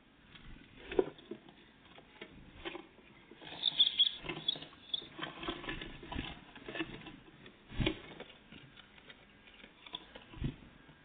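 Great tits and blue tits at a feeder: irregular pecking taps, scrabbling and small knocks, with a few louder knocks and a brief burst of high-pitched sounds about four seconds in.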